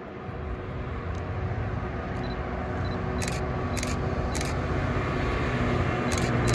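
Train approaching, a steady low hum growing louder, with a run of sharp clicks about halfway through and again near the end.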